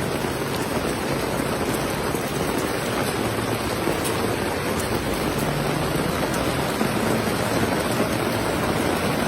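Heavy rain pouring down steadily, a dense even hiss of rain hitting the surfaces.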